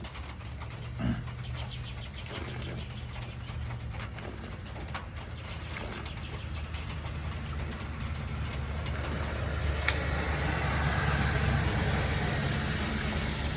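A steady low engine hum, with a vehicle's tyre hiss on a wet road swelling up in the second half, and rain drips ticking irregularly throughout.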